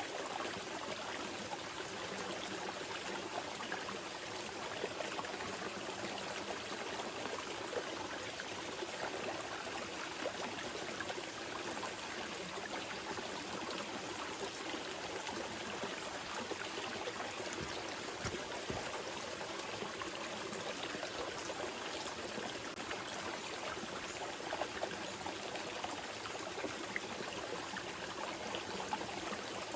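Small mountain river flowing gently over rocks, a steady rush of water with light splashing and trickling.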